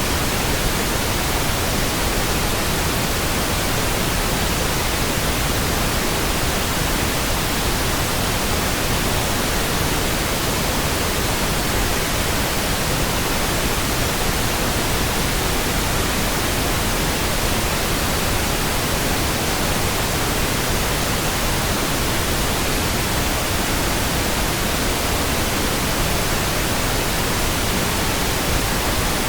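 Synthetic pink noise: a steady, even hiss across all pitches that never changes.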